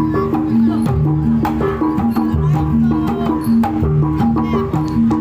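Javanese gamelan music playing steadily: repeating pitched percussion notes cycling in a fixed pattern over sharp drum strokes.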